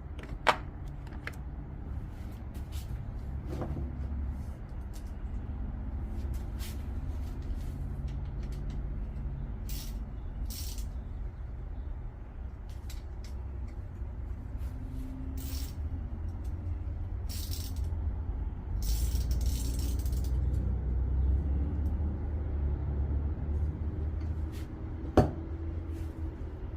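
Hand tools clinking and rattling against metal while working on a pit bike, with two sharp knocks, one just after the start and one near the end, over a steady low rumble.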